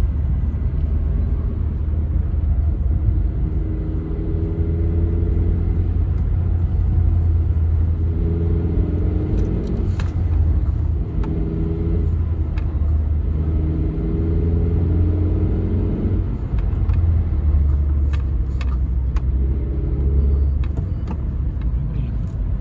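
Toyota Carina E's 1.6-litre 16-valve four-cylinder engine and road rumble while driving, with a steady low drone. An engine note swells and fades several times as the revs and load change, and a few light clicks come near the middle and toward the end.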